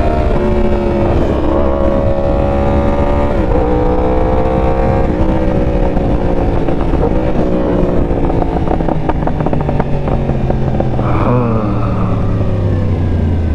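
Sport-bike inline-four with an aftermarket exhaust, ridden hard, its engine pitch climbing and dropping with each gear change over steady wind rush on the mic. A run of crackles comes a little past the middle, then the revs rise again near the end.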